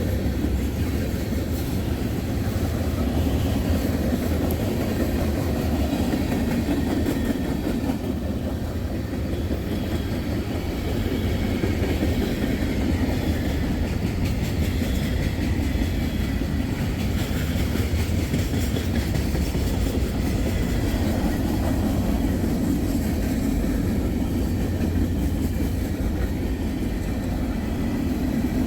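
Loaded tank cars of a freight train rolling past at steady speed: a continuous low noise of steel wheels on rail.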